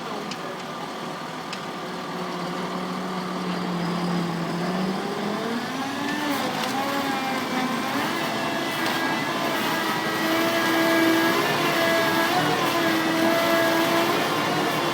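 Engine of a truck-mounted Woody 60 harvester rig running steadily, then speeding up about five seconds in and holding a higher, steady speed.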